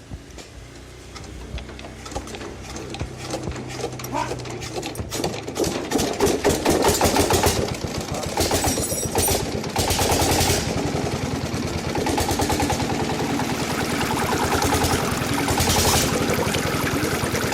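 Small homemade model engine mechanism running with a fast, steady clatter of rapid ticks, getting louder about six seconds in.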